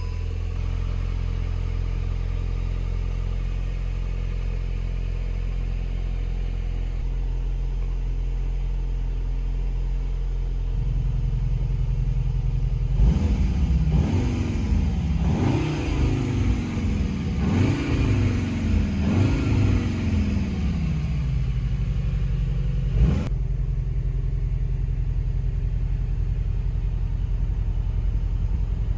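Cupra Leon's 2.0 TSI turbocharged four-cylinder petrol engine idling steadily, then revved about five times in quick succession, each rev rising sharply and falling back to idle. A single sharp crack follows shortly after, and the engine settles back to idle.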